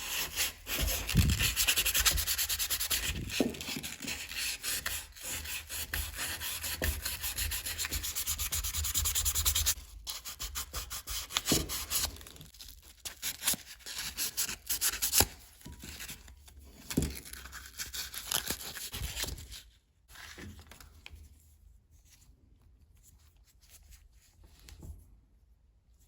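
Hand sanding of a brass part with sandpaper: rapid back-and-forth strokes, steady for about the first ten seconds, then in shorter spells that die away about twenty seconds in.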